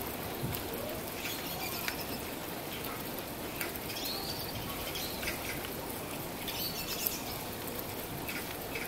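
Steady rain falling, with small birds chirping briefly several times over it.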